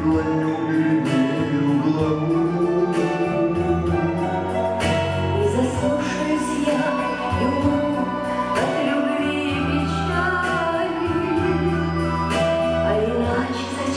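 Live singing of a slow song to acoustic guitar accompaniment, with sung notes held and gliding between pitches over steady bass notes.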